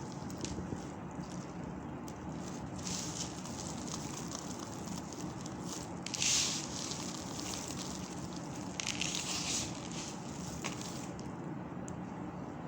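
Colourful soap balls being crushed: a continuous crackling crunch, with louder crunches about three seconds in, around six and a half seconds in and near nine seconds.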